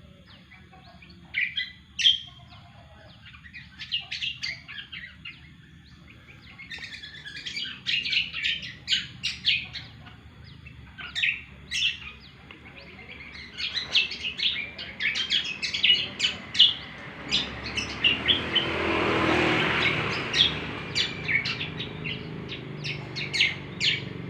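A cucak kombo bird singing busily, a rapid series of short, sharp chirps and trills that keeps on through the whole stretch. About three quarters of the way through, a broad rushing noise swells up and fades beneath the song.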